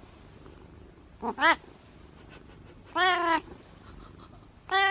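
Domestic cat meowing three times, about every second and a half; the first call is a quick double meow and the middle one is the longest.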